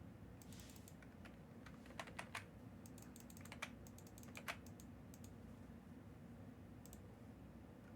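Faint, scattered clicks and taps, coming irregularly in small clusters, over a low steady room hum.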